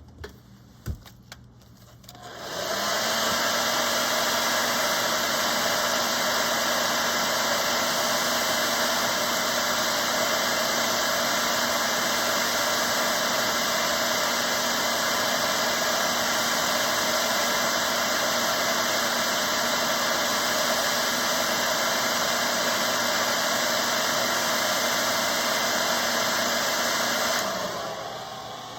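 A handheld hot-air dryer switches on about two seconds in and blows steadily with a low hum, drying freshly brushed-on paint, then winds down and stops near the end.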